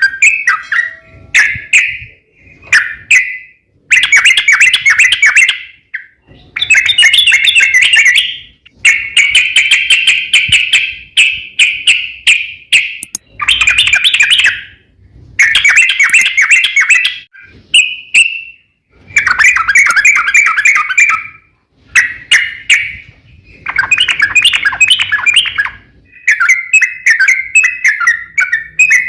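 Crokcokan (yellow-vented bulbul) singing loudly in rapid, bubbling chattering phrases of one to two seconds each, repeated after short pauses.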